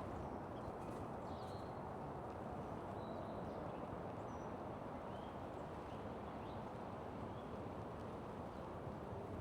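Mission Creek flowing, a steady rush of water, with a few faint, short bird chirps above it.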